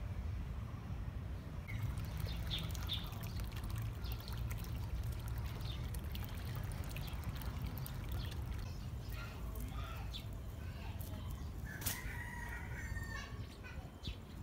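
Scattered short bird calls over a steady low rumble, with one longer, drawn-out bird call about twelve seconds in.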